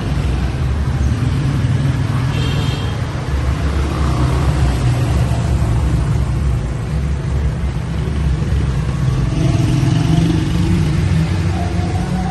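A motor vehicle running with a steady low rumble. A tone rises slowly near the end.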